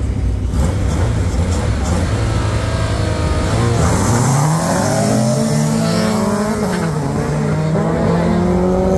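Racing cars accelerating hard, a low rumble giving way about four seconds in to engine notes that sweep up and keep climbing steadily.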